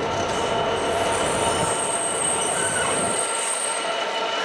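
Freight train hauled by a Class 66 diesel locomotive rolling past, its wheels squealing with several steady high tones over the rumble of the wagons. The low rumble drops away about three seconds in.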